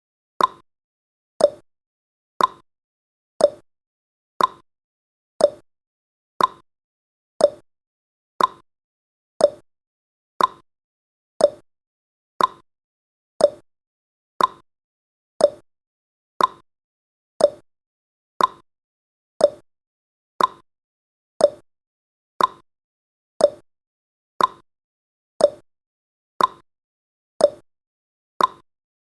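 Countdown timer's ticking sound effect: a short, sharp click once every second, evenly spaced.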